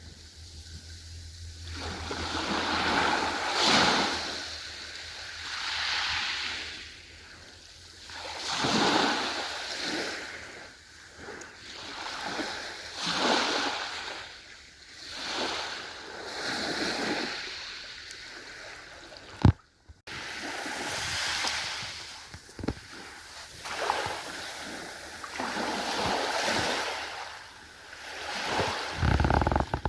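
Ocean waves washing in, the surf swelling and fading every two to three seconds. About twenty seconds in, a sharp click and a momentary dropout break the sound.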